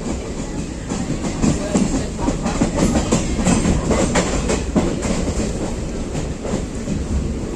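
Indian Railways passenger train running, a continuous rumble from the coach with its wheels clattering in quick clicks over the rail joints.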